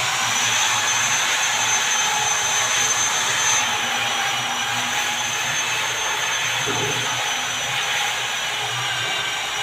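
Electric power tool motor running steadily under load, with a high whine that drops slightly in pitch about three and a half seconds in.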